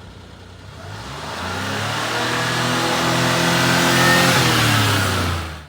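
1989 Suzuki Carry kei truck's small three-cylinder engine revving up from idle about a second in, holding high revs, easing off slightly, then cutting off suddenly.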